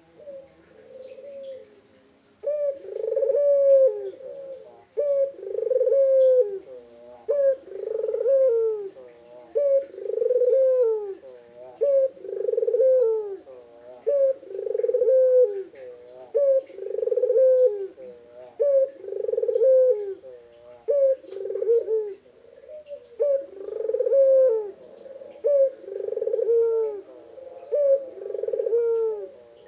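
A Barbary dove (puter) cooing over and over in a steady rhythm, one coo about every one and a half to two seconds, with a short pause about two-thirds of the way through.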